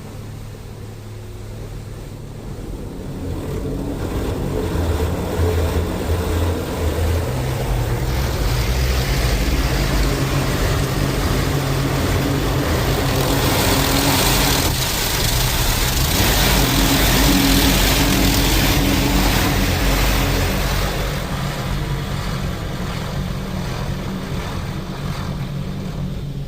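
High-pressure water jets of an Istobal M'Wash 3 rollover car wash spraying over the car's roof and sides, heard from inside the cabin, over a steady hum from the machine. The spray builds over the first few seconds, is loudest around the middle and eases off toward the end.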